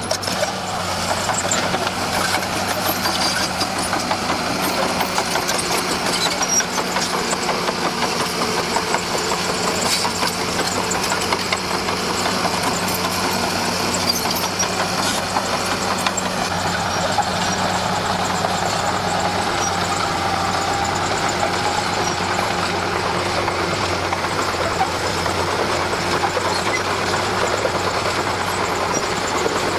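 Komatsu D41P crawler dozer's diesel engine running steadily at work, with light metallic rattling over the engine sound.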